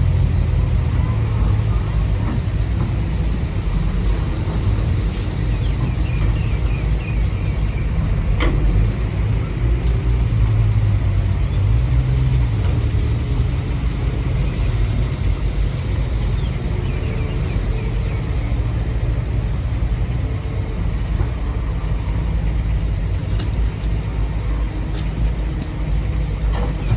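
Construction machinery running with a steady low engine rumble, with a few short clicks and knocks over it.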